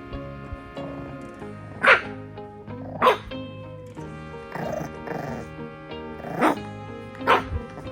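A dog barking in short, sharp barks: four loud ones spread over several seconds, with a few softer ones in between, over background music.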